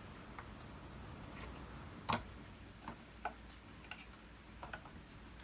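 A handful of small, irregularly spaced clicks and knocks from the vacuum cleaner's parts being handled during disassembly, the loudest about two seconds in.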